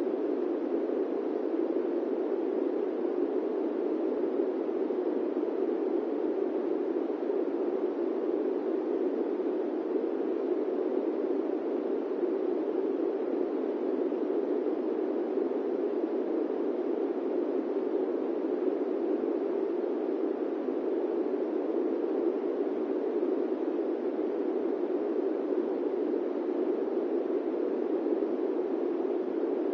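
Airplane cabin noise: a steady, even rush of engine and air noise, strongest in the low-middle range, with no change or distinct events.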